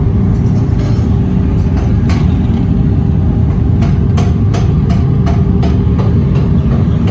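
Heavy factory machinery running with a loud, steady low rumble and a constant hum. Irregular sharp clicks and knocks come in from about two seconds in.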